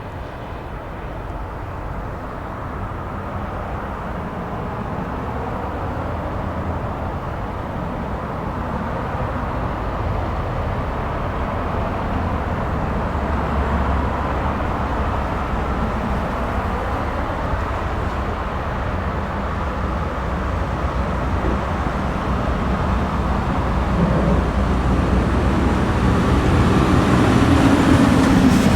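Heavy snow plow truck running along the road, its engine rumble mixed with a steady rushing noise. It grows gradually louder as it approaches.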